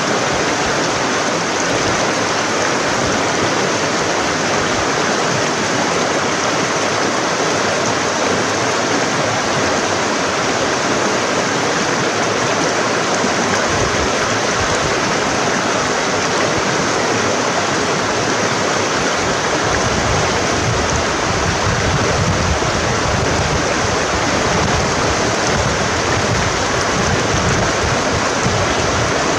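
Forest stream flowing over rocks, a steady rushing of water. A low rumble joins it past the middle and stays to the end.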